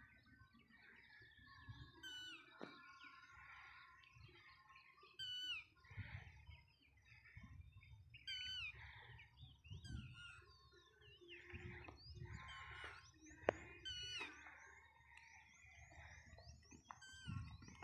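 Faint birdsong: birds calling every few seconds in quick runs of short whistled notes that step down in pitch, over a low rumble. A single sharp click just past the middle.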